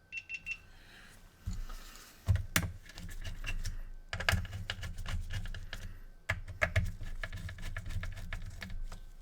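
Typing on a computer keyboard: irregular runs of key clicks over a low hum that comes in about a second and a half in.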